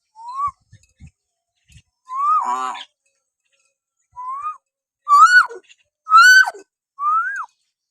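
Hill myna whistling: a series of six short clear whistles, each rising in pitch, the louder later ones ending in a sharp downward swoop.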